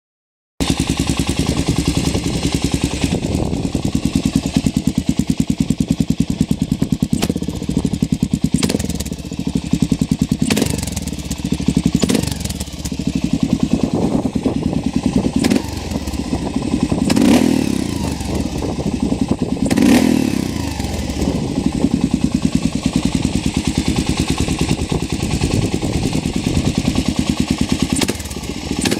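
Kawasaki KL600R single-cylinder four-stroke engine running through a SuperTrapp exhaust while riding, a rapid even pulse that swells with the throttle, louder twice past the middle. It starts abruptly about half a second in.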